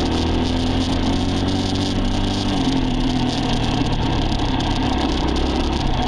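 A vehicle engine running steadily, its pitch shifting slightly about two and a half seconds in.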